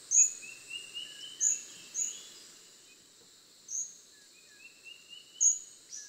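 Bird calls: five short, sharp, high calls, with two runs of quieter chirping notes stepping upward in between, over a steady high hiss.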